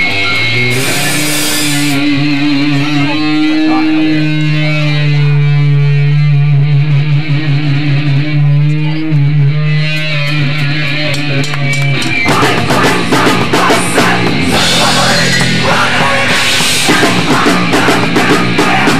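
Hardcore punk band playing: distorted electric guitar holds ringing chords for about twelve seconds, then the drums come in and the full band plays fast and loud.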